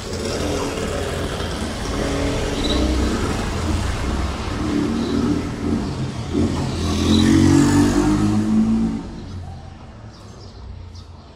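A motor vehicle passing by. It grows louder, is loudest about seven to eight seconds in, and fades after about nine seconds.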